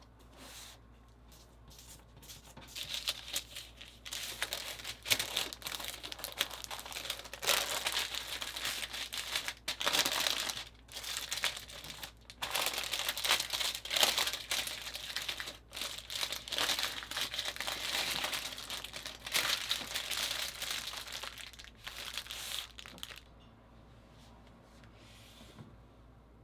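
Crinkling and rustling of a wrapping sheet being handled and folded around a tortilla wrap, from about two seconds in until near the end, with sharp crackles.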